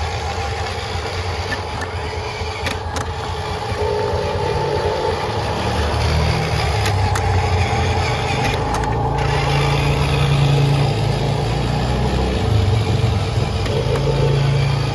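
Huina 1573 radio-controlled dump truck running: a steady motor and gear whine over a low engine-like rumble, growing louder about four seconds in.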